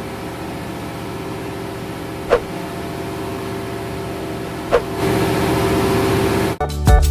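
Steady machinery hum in a tugboat's engine room, with a sharp tick about every two and a half seconds. The hum gets louder about five seconds in, and guitar music comes in near the end.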